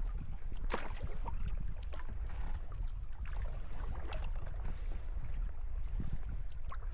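Kayak paddling on the sea: water splashing and dripping off the paddle blades at irregular intervals over a steady low rumble of wind on the microphone.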